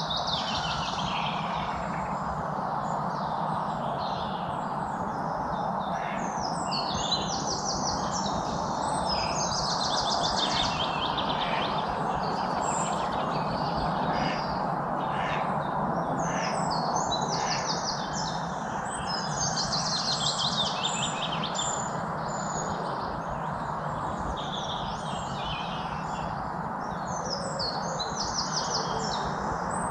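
Several songbirds chirping and singing, with fast trills recurring every few seconds, over a steady background hiss.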